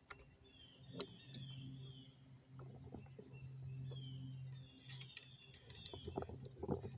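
Faint birdsong: short descending chirps in two runs, over a low steady hum. Small clicks of metal lathe parts being handled, one about a second in and several near the end.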